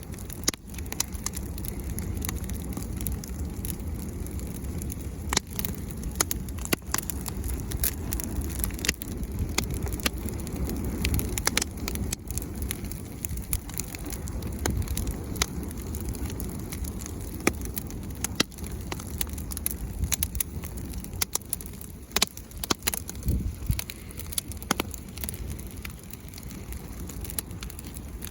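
Bonfire burning, with irregular sharp crackles and pops over a steady low rumble.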